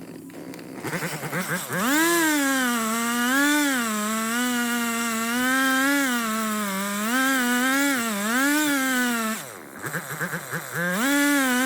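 Two-stroke chainsaw revved from idle to full throttle about a second in, then held at high speed with its pitch dipping and recovering again and again, as under cutting load. It drops back briefly about nine seconds in, then revs up again near the end.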